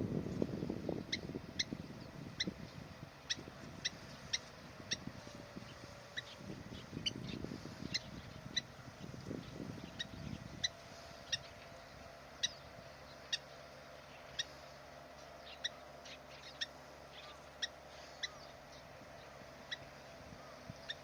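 A bird repeating short, sharp calls, about two a second, irregularly spaced.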